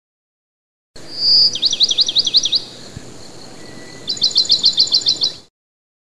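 A bird singing: a high whistled note, then a trill of quick sweeping notes, and after a short pause a second, faster trill. It starts about a second in and cuts off sharply.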